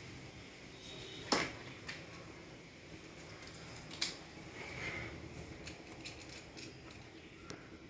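Scattered sharp clicks and light clatter of small hard objects being handled, with a low steady room background. The loudest click comes about a second in and another about four seconds in.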